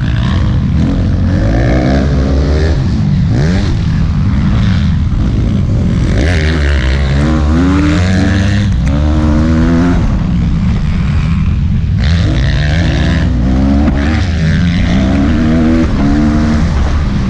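Motocross bike engine revving hard, its pitch rising and dropping back over and over as the throttle opens and closes.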